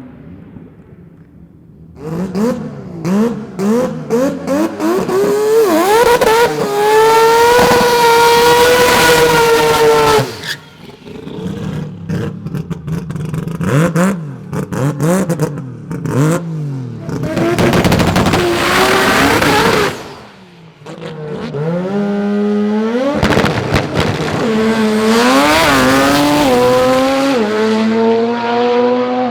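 Turbocharged Mazda rotary engines in drag cars revving hard, their pitch climbing and dropping back in steps as they go through the gears, with rapid crackling stretches on the limiter and a few loud passes.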